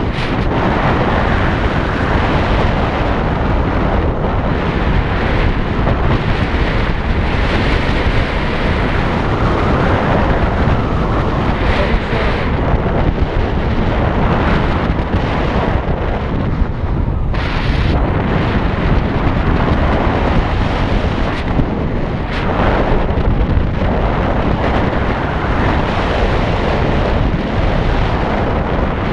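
Heavy, steady wind buffeting on the microphone of a moving motorcycle, with the rumble of the ride underneath.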